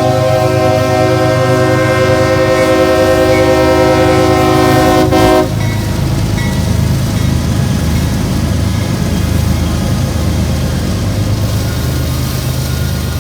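Locomotive air horn held as a steady multi-note chord, cutting off abruptly about five and a half seconds in, over the steady low rumble of the diesel locomotive and passing train, which carries on afterwards.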